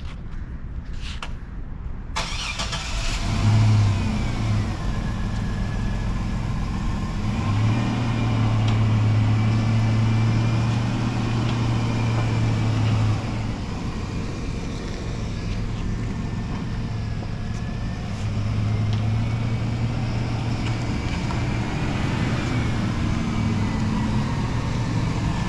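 Motor vehicle driving: steady engine and road noise that starts abruptly about two seconds in, with a low engine hum that swells and fades several times.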